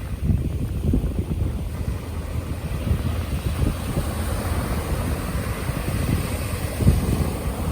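Wind buffeting the microphone: a loud, gusty low rumble, with a stronger gust about seven seconds in.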